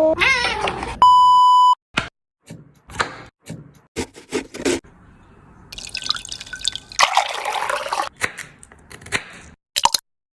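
Kitchen food-preparation sounds: a single electronic beep about a second in, then a string of clicks, taps and drips, with a stretch of running or splashing water around the middle.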